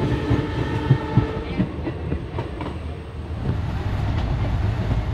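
Two passenger trains passing on adjacent tracks, wheels clattering over rail joints, heard from the open door of one of them. A train horn sounds through about the first second and a half. About three seconds in, the clatter gives way to the steady rumble of the train running on open track once the other train has gone by.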